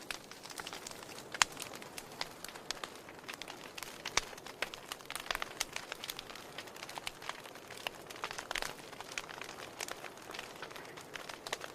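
Wood fire crackling in a fireplace: irregular snaps and pops over a soft steady hiss, with the sharpest pop about a second and a half in.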